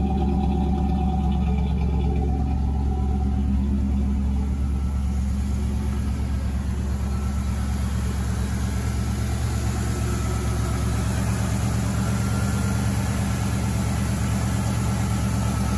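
Chevrolet Camaro Z28's carbureted 305 V8 idling steadily, with no revving; from about five seconds in there is more hiss over the engine note.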